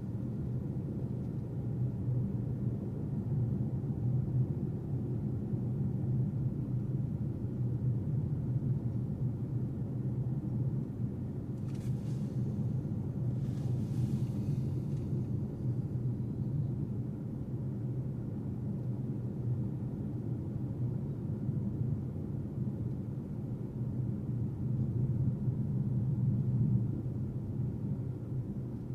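A car being driven, with a steady low rumble of engine and road noise. Two brief hisses come in about twelve and fourteen seconds in.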